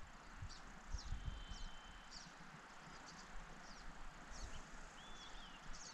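Faint birdsong: many quick, high descending chirps, a thin whistle held for about a second starting about a second in, and a short wavering note near the end, over a steady soft hiss.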